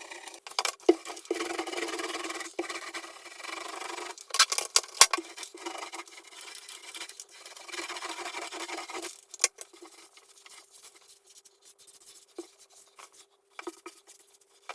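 Repeated rubbing and scraping strokes against a surface, with scattered sharp clicks, quieting to occasional ticks after about nine seconds.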